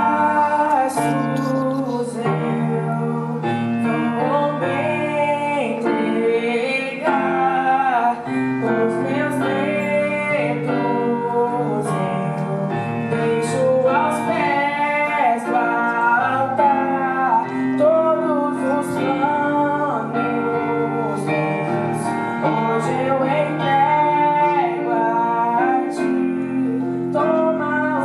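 Woman singing a sacred song with vibrato on the held notes, over steady instrumental accompaniment.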